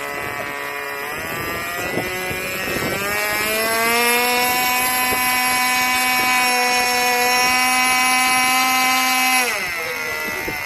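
Small engine of a radio-controlled model airplane running, climbing in pitch about three seconds in to a steady high whine. The pitch falls sharply about nine seconds in.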